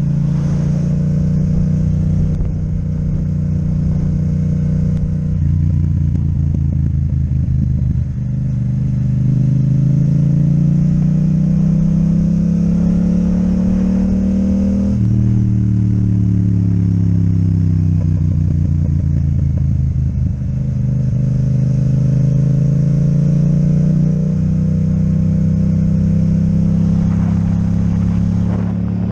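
Yamaha MT-07's parallel-twin engine through an Akrapovic exhaust while riding. Its pitch climbs under acceleration, drops abruptly at an upshift about halfway, sinks as the engine slows, then climbs again near the end.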